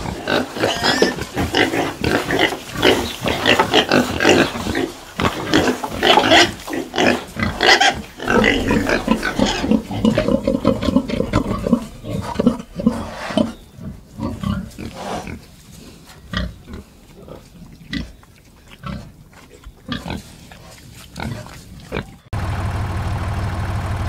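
Pigs grunting, thick and fast for the first dozen seconds, then in sparser single calls. About two seconds before the end, an engine starts running steadily at idle.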